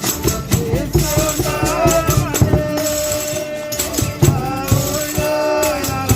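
Folia de Reis music: tambourine jingles and shaken rattling percussion keeping a steady rhythm under long, held melody notes.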